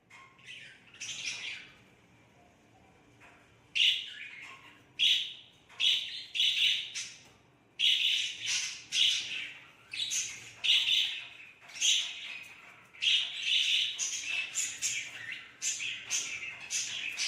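Budgerigar chirping: a few short calls near the start, then a dense, near-continuous run of high chirps and squawks from about four seconds in.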